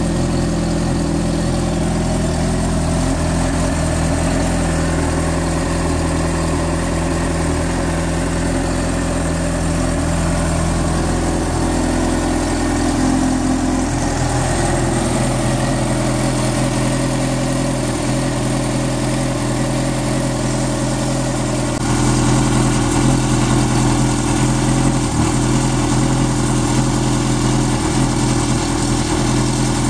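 Honda CBR600F2's inline-four engine idling steadily. Its note shifts about halfway through and it grows a little louder about three-quarters of the way in.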